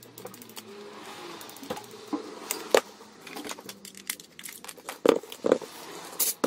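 Irregular clicks, taps and knocks of hand tools on the plastic and metal housing of a Bosch GWS 20-230 angle grinder as it is taken apart, with a few louder knocks about two and a half and five seconds in.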